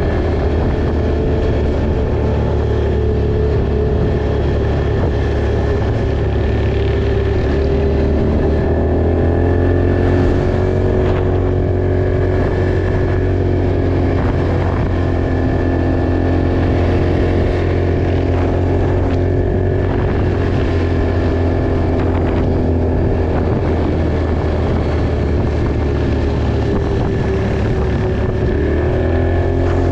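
Off-road vehicle engine running steadily while riding. Its pitch shifts with the throttle about nine seconds in and again near the end, with occasional faint knocks.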